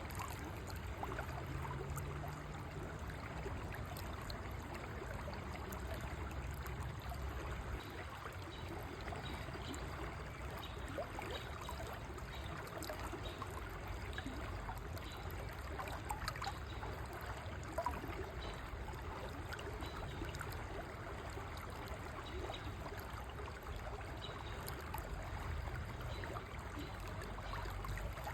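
River water flowing steadily over rocks, with a continuous trickling babble.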